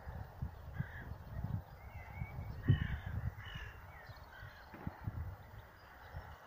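Birds giving a series of short calls, spaced through the first five seconds, over an uneven low rumble that fades near the end.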